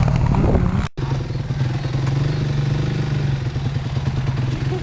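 Dirt-bike engine running loud and rough, then after an abrupt cut about a second in, running at steady revs with an even tone.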